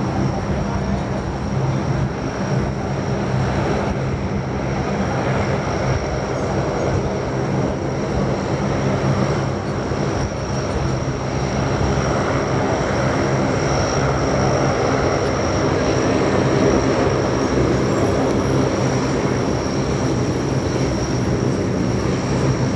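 Aircraft engines running steadily at a constant pitch: a low drone with a steady high whine above it.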